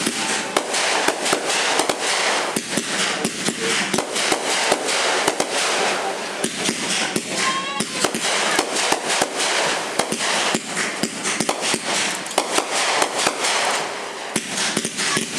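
Fireworks going off in a dense, continuous barrage of rapid crackling pops and bangs.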